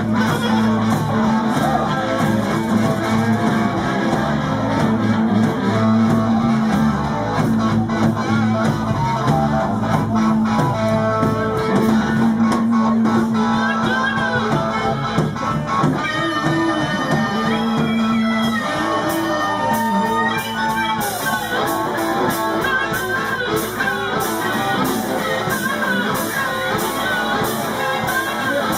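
Live blues-rock band playing an instrumental break, led by electric guitar over bass and drums, with held, bending lead notes in the middle and a steady cymbal beat in the second half.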